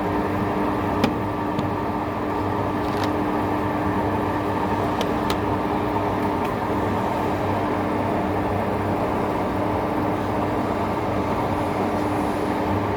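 Heavy-duty lathe running steadily while turning a large steel part, a constant machine hum with a few sharp clicks scattered through it.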